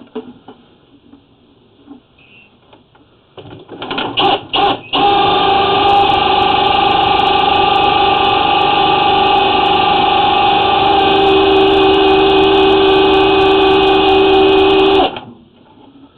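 Drain-cleaning machine motor spinning its cable in a clay sewer line to cut tree roots. It starts in a few short spurts, runs steadily for about ten seconds, then stops about a second before the end.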